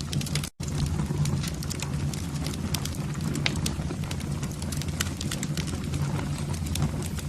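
Wood fire in a fireplace burning, with a steady low rumble under irregular sharp crackles and pops. The sound cuts out for an instant about half a second in.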